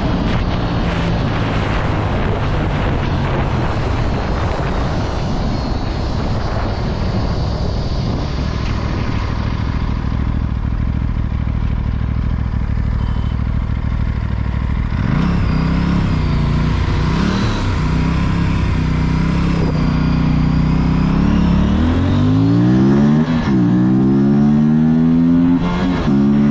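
Aprilia RS457 parallel-twin engine at highway speed with heavy wind rush. Past the halfway point the engine note wavers, then rises sharply under acceleration, dropping back briefly at each of two gear changes near the end.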